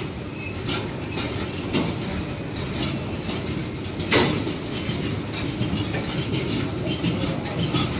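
Freight train of open-top wagons rolling past, its wheels clattering over rail joints with intermittent high wheel squeal, and one loud clank about four seconds in.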